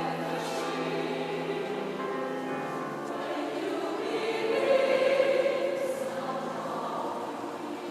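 A choir singing sacred music in long held chords that swell a little about five seconds in.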